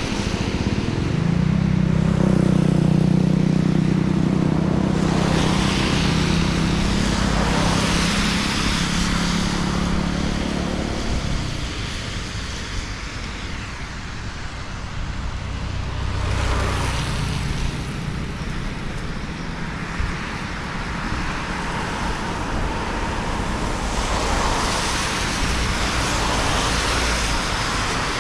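Road traffic on a wet street: a vehicle engine running nearby with a steady low drone for the first ten seconds or so, then passing cars with a hiss of tyres that swells and fades several times.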